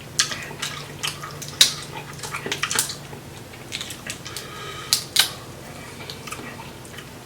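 Wet eating sounds of sauced seafood-boil shrimp being peeled and chewed: irregular sticky smacks and sharp clicks, the loudest about a second and a half in and again around five seconds.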